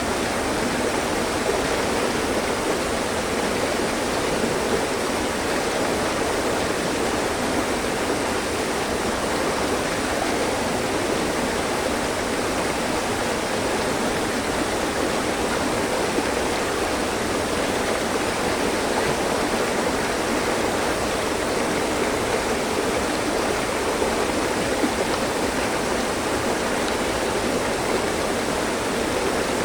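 Mountain stream: water rushing and splashing over rocks, a steady continuous flow without pause.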